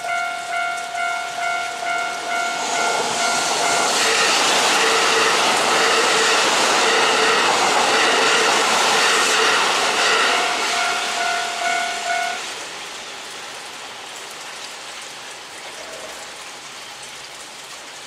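A Japanese level-crossing bell dings steadily, a little under twice a second. A Kintetsu Urban Liner limited express rushes past and its noise swamps everything for several seconds. The bell stops about twelve seconds in, leaving the steady hiss of heavy rain.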